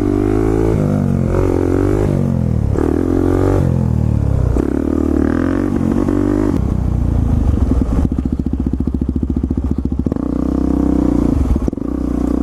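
Motorcycle engine revving hard, its pitch climbing and dropping several times as it accelerates through gears on a wheelie attempt. After about eight seconds it settles into a steadier, lower run.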